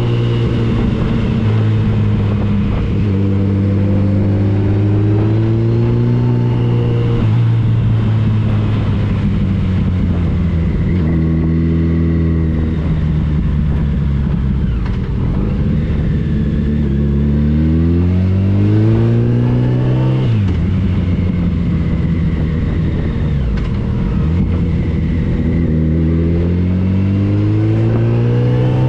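Yamaha FJR 1300 inline-four engine pulling hard through the gears under wind rush. The pitch climbs in runs and drops sharply at each change, about seven and twenty seconds in and again at the end.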